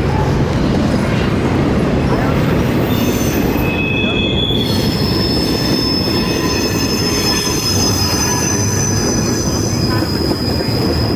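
Train passing on steel rails, with a steady rumble and the wheels squealing against the rail: high, thin squeal tones come in about three seconds in and hold on.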